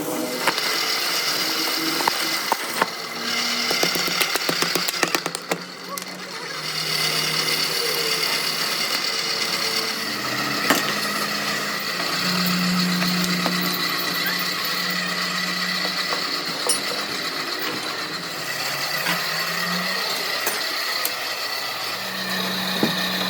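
Workshop power tools and machinery running steadily, with a run of rapid sharp knocks in the first few seconds.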